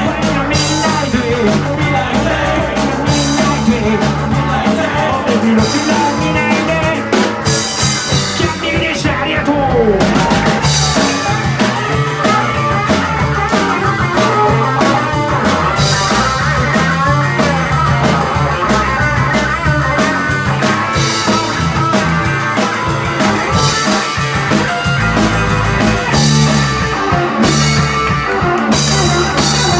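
Live rock band playing a song: electric guitar and drum kit, with some singing.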